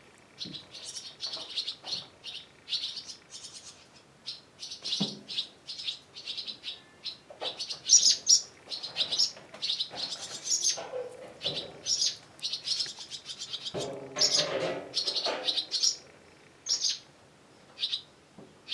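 Small birds chirping, a rapid series of short high chirps a few times a second.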